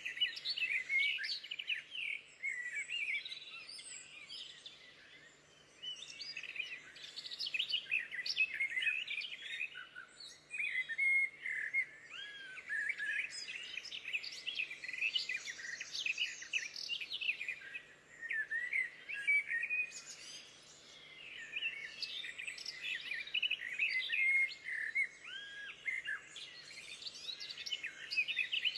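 Small birds singing, a busy chorus of quick chirps and short warbled phrases, with a couple of brief lulls.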